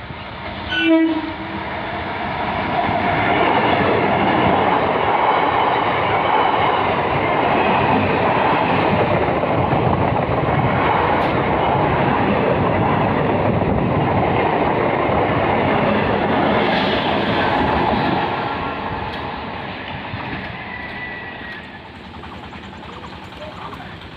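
Suburban electric multiple-unit local train gives a short horn blast about a second in. Then it runs past at speed, a loud rush of running noise and wheel clatter that builds over a couple of seconds, holds, and fades after about eighteen seconds as the last coaches clear.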